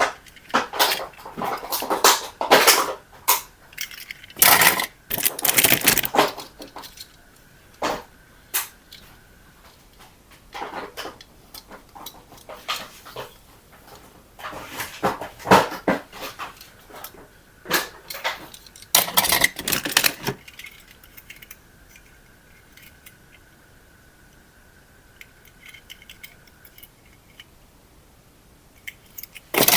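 Irregular clattering and rustling of small hard objects being handled, in bursts with quiet gaps. A faint steady high tone sounds twice, for a few seconds each time.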